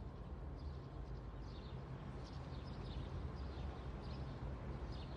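Small birds chirping outdoors, short high falling chirps about once a second, over a steady low rumble of background noise.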